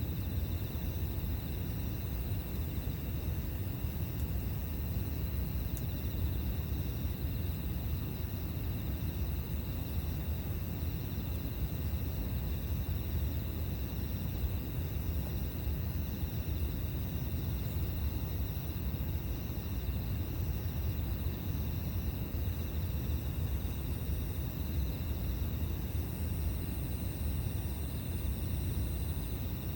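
Outdoor campfire ambience: a steady low rumble with insects trilling continuously in the background, and a single faint crackle about six seconds in.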